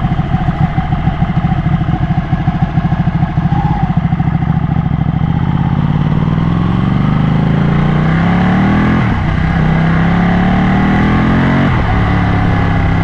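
Ducati motorcycle engine, pulsing unevenly at low revs for the first few seconds, then pulling up through the gears: the pitch rises, drops at an upshift about nine seconds in, and rises again to another upshift near the end.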